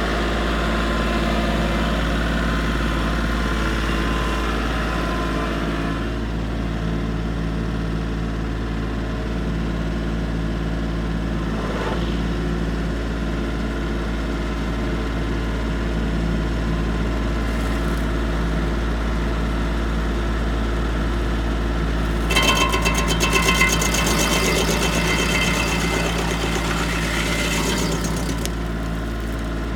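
Tractor engine running steadily with an SG24 three-point-hitch stump grinder attached. About two-thirds of the way in, a louder, harsher rasping stretch with a high whine lasts several seconds.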